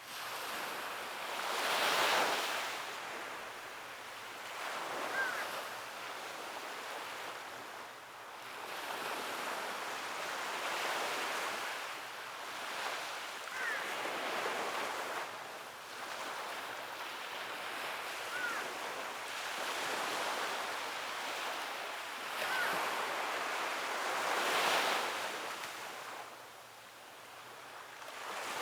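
Sea waves breaking and washing up on a beach, surging and easing every few seconds, with the strongest surges about two seconds in and near the end.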